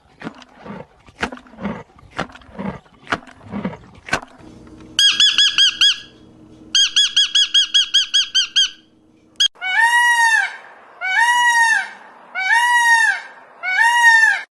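Animal sounds in three parts. First come irregular clicks and knocks for about four seconds. Then there are two runs of rapid, high-pitched chirping, about eight chirps a second. Near the end come four long, arched calls, each rising and falling over about a second.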